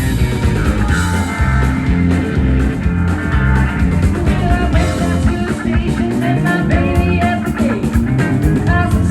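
Live country-rock band playing an instrumental passage: electric guitar lead with bending notes over bass and drums.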